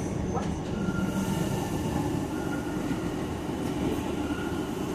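Docklands Light Railway train running: a steady rumble of wheels on the track, with a faint high whine that comes and goes.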